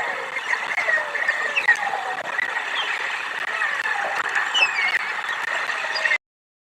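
Several small birds chirping and singing in a tangle of short whistled notes over a steady outdoor hiss, cut off abruptly about six seconds in.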